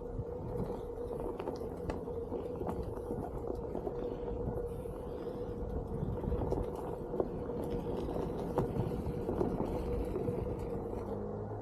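OneWheel GT's electric hub motor whining at a steady pitch while riding, over a low rumble and scattered small clicks from the tyre on the trail. A second, lower whine joins near the end.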